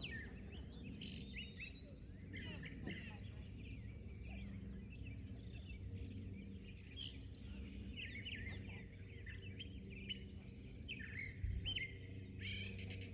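Several small birds chirping and singing in short repeated phrases over a steady low background hum, with one brief low thump near the end.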